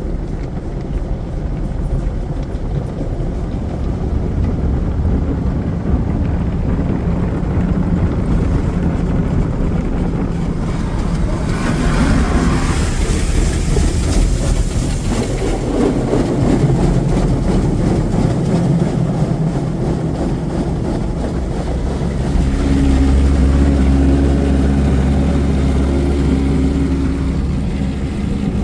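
Automatic tunnel car wash equipment heard from inside the car: a continuous low rumble, a burst of spray hiss about twelve seconds in lasting a few seconds, and a louder steady drone from about twenty-two seconds in.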